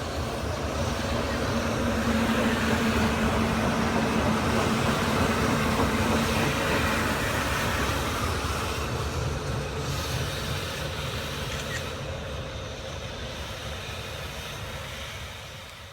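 JNR EF63 electric locomotive running on the track, its sound swelling over the first couple of seconds and then slowly fading, with a steady hum during the first half.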